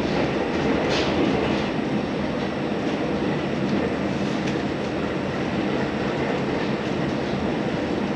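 Onboard running noise of a JR Hokkaido H100 DECMO diesel-electric railcar at speed: a steady rumble of the engine and the wheels on the rails, with a few light clicks over rail joints.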